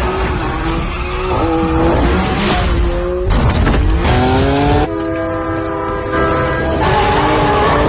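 A supercar's engine revving hard, its pitch climbing and then dropping back several times as if shifting up through gears, then holding one steady note for about two seconds before climbing again near the end.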